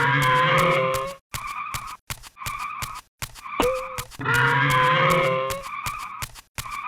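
Cartoon soundtrack: a short loop of sound effects or music repeating about every four seconds. Each pass has a quick downward swoop into a held tone, then a loud buzzing stretch, over regular sharp ticks.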